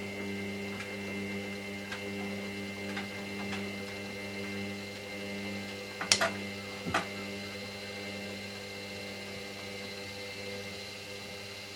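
Hoover DYN9144D3X washing machine running with a steady, even hum, without the rising pitch of a spin speeding up; two sharp clicks sound about six and seven seconds in.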